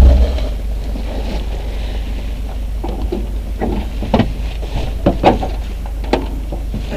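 A steady low rumble like wind buffeting a microphone, with irregular sharp knocks and clunks scattered through it.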